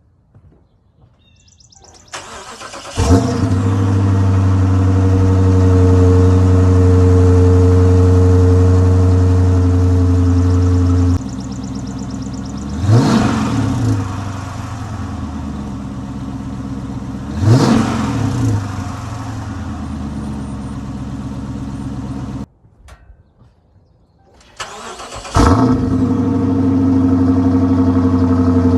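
Dodge Charger Pursuit's 5.7 Hemi V8 exhaust, compared stock and with the mid muffler deleted. The engine cranks and catches with a flare, then runs at a steady fast idle. It drops to a quieter idle with two quick revs. The sound cuts off abruptly, then the engine is started again with another flare and settles into an idle.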